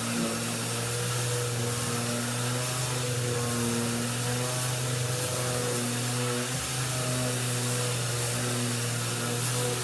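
Electric motor running steadily with a loud hiss and a low hum, from a sander or vacuum cleaner working on a table.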